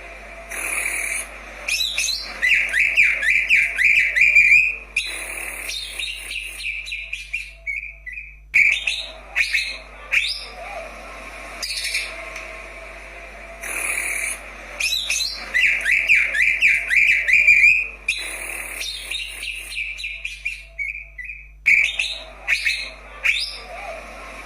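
Greater green leafbird (cucak ijo) singing a varied song of rapid chattering trills and whistled notes. The same run of phrases comes round again about every 13 seconds.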